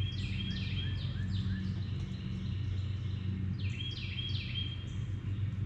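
A bird chirping in two quick runs of short, high, falling notes, one at the start and one a little past the middle, over a steady low hum.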